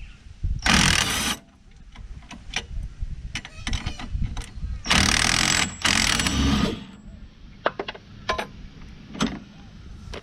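Impact wrench (rattle gun) running in two bursts, a short one about a second in and a longer one from about five to nearly seven seconds, undoing suspension knuckle bolts. Short sharp knocks and clinks of tools and parts come in between.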